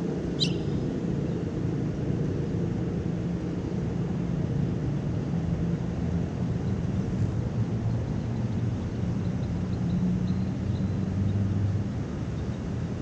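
Steady low rumble of city traffic, with a single short, high bird chirp about half a second in.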